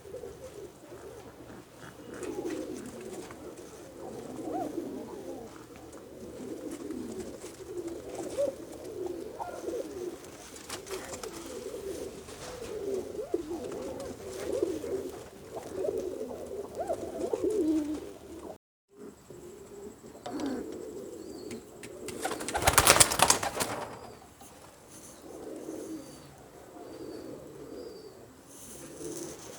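Several domestic pigeons cooing over one another with low, rolling calls. About two-thirds of the way through there is a loud rustling burst lasting about a second, after which the cooing carries on more faintly.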